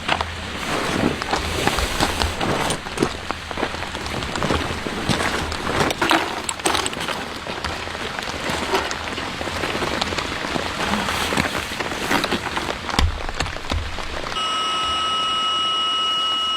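Rain falling on a surface: a dense patter with many separate drop hits. About two seconds before the end it gives way suddenly to a steady hum with two thin high tones.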